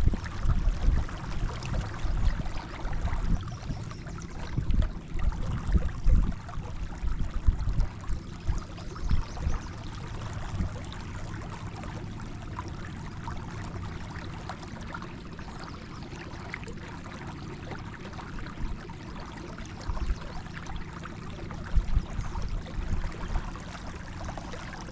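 Canoe being paddled across a lake: water splashing and trickling off the paddle and around the hull, with irregular low thumps through the first several seconds and again briefly near the end.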